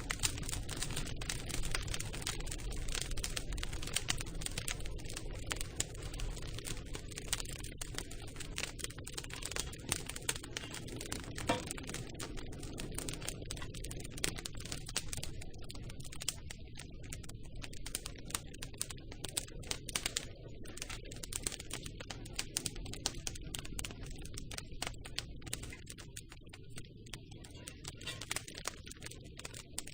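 Campfire crackling: a dense run of small pops and snaps over a steady low rumble of the burning fire.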